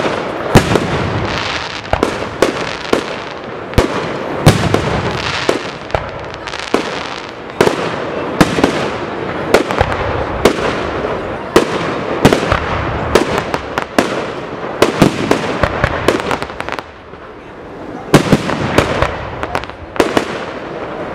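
Aerial firework shells fired from mortars, bursting in quick succession: many sharp bangs, several a second, over a continuous noisy wash, with a brief lull late on before the bangs resume.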